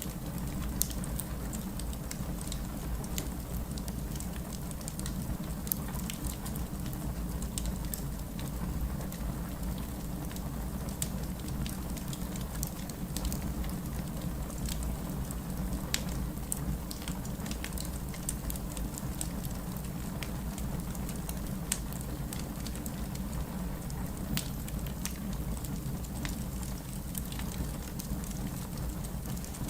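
Heavy rain falling steadily, mixed with a wood fire crackling in irregular small, sharp pops and snaps.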